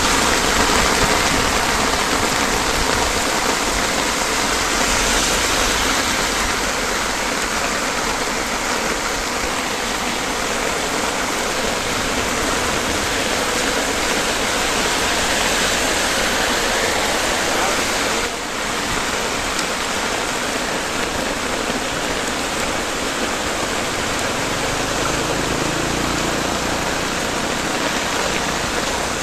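Heavy rain falling steadily on an umbrella overhead and on the flooded road, a dense even rushing noise with no let-up.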